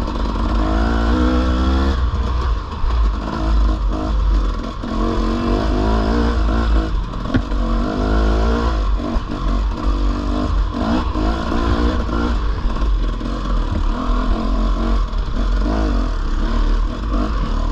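Dirt bike engine running under load on a trail ride, its pitch rising and falling again and again as the throttle opens and closes. A heavy low rumble of wind on the microphone runs underneath.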